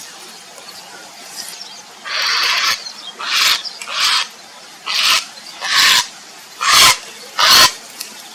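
Grey heron giving a series of harsh calls: one longer call about two seconds in, then six short ones at roughly one-second intervals. This is the heron's calling for a mate.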